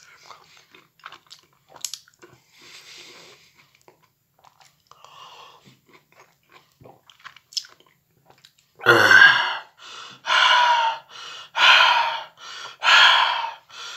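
Close-up mouth sounds of a man eating mandarin segments: faint peeling and chewing at first, then, about nine seconds in, five loud chewing sounds about a second apart.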